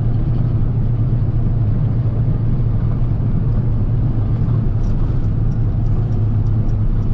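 Steady low rumble of a car's engine and road noise, heard from inside the moving car's cabin. Faint, evenly spaced ticks join in about five seconds in.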